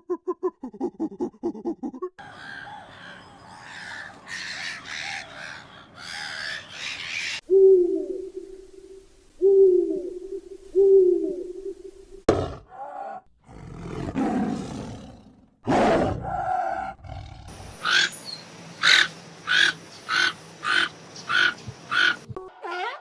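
A run of different animal calls cut one after another, changing every few seconds: among them three short low calls about a second and a half apart in the middle, and a series of quick repeated calls, about two a second, near the end.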